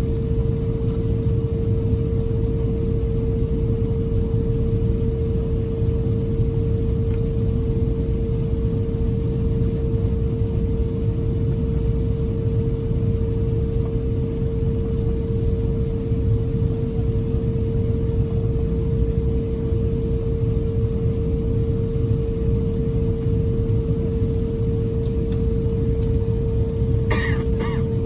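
Steady cabin roar inside an Airbus A350-1000 with its Rolls-Royce Trent XWB-97 engines running, carrying one constant humming tone. A few short clicks near the end.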